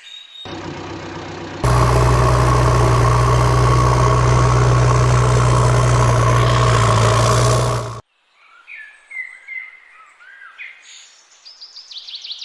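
A loud, steady engine sound runs for about six seconds and cuts off abruptly. Birds chirp before and after it.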